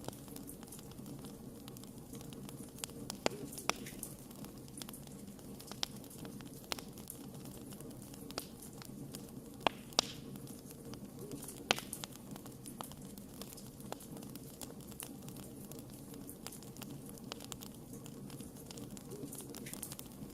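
Wood fire crackling: a steady low hiss with frequent irregular snaps and pops, a few of them sharper and louder.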